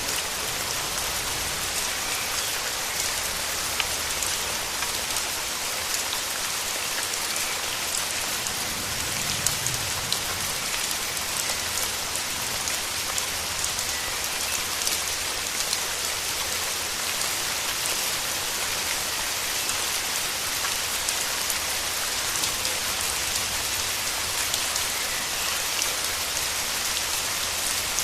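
Steady rain falling, with a dense patter of individual drops close by.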